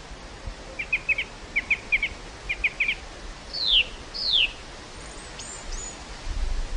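Wind blowing steadily across an open field of wildflowers, with small birds calling: three quick clusters of short chirps, then two clear downward-sliding whistles, and a few faint high calls. A low rumble of a gust on the microphone comes near the end.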